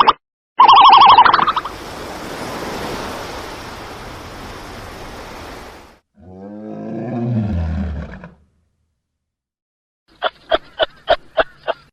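A string of separate animal sounds. A loud high call comes first, then a few seconds of steady noisy hiss, then a low growl that falls in pitch. After a pause, about seven quick sharp clicks come near the end.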